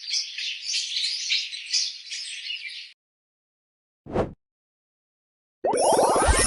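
Common starling calling: a dense run of high, chattering chirps and whistles that stops about three seconds in. A short low thump follows about a second later, and a louder, noisier sound starts near the end.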